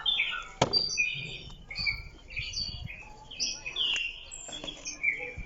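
Small birds chirping in quick, overlapping short calls, with a few sharp clicks among them.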